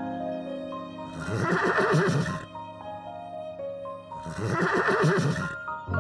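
Two loud, rough animal calls about a second long each, one a little over a second in and one about four seconds in, over background music with a simple melody of stepped notes.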